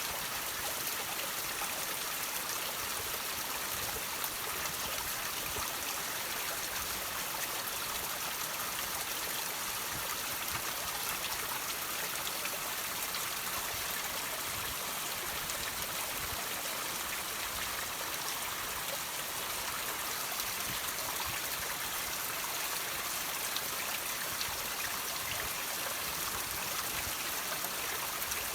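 Water trickling and dripping off rocks: a steady, unbroken wash of running water with small drops falling through it.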